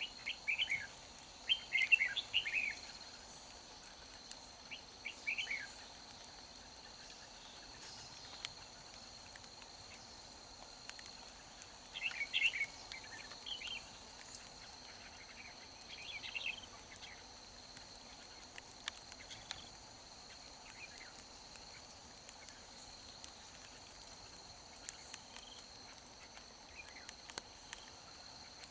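Red-whiskered bulbul singing short, rapid phrases in several bursts, loudest near the start and about twelve seconds in, with fainter notes later. A steady insect drone runs underneath.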